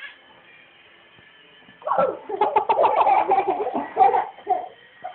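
A child laughing and giggling in a run of quick, breathy bursts, starting about two seconds in and lasting about three seconds.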